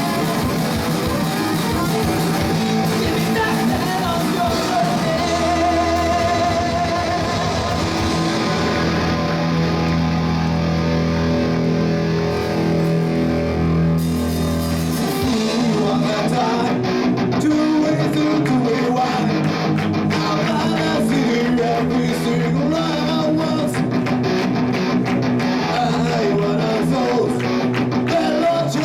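Rock music with guitar and bass holding sustained chords. From about halfway through, dense sharp percussive hits join in.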